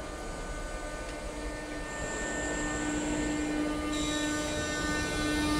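Italo AGV high-speed electric train moving along the platform, its traction equipment giving a steady electric whine of several held tones over rolling noise. The whine grows louder, and a higher set of tones joins in about four seconds in.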